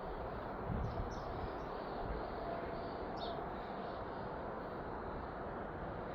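Steady outdoor background rumble with a few short, faint bird chirps.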